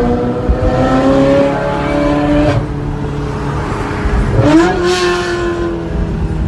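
Ferrari engine revving in a tunnel. The engine note climbs in pitch, drops suddenly about two and a half seconds in, then surges up again near four and a half seconds and slowly falls away.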